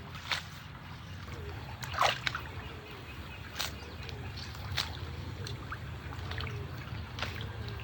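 Water splashing and trickling, with scattered sharp splashes or knocks over a steady low hum; the loudest splash comes about two seconds in.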